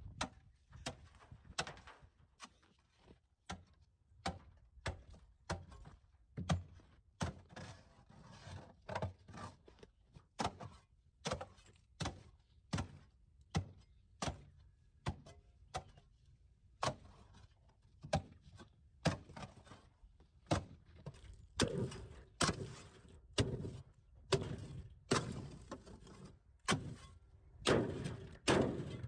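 Footsteps in snow at a steady walking pace, a step about every two-thirds of a second, getting louder over the last few seconds.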